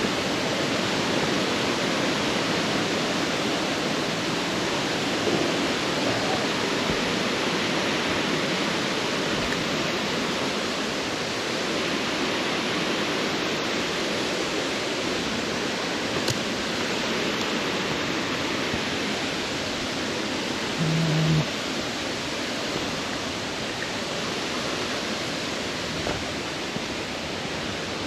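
Waterfall on Reedy Cove Creek rushing steadily in heavy flow after rain.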